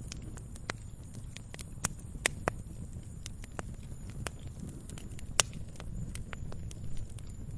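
Wood campfire crackling: irregular sharp snaps and pops over a steady low rumble of the burning fire, with a few louder pops about two seconds in and again past the halfway point.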